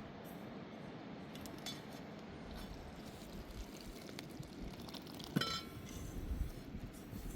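Light clinks of kitchenware, with one sharp ringing clink about five and a half seconds in, over a steady low rushing noise.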